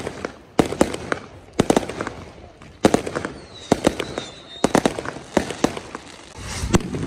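Fireworks going off: a fast series of sharp bangs and crackles, some in quick clusters. There is a short wavering high whistle a little past the middle.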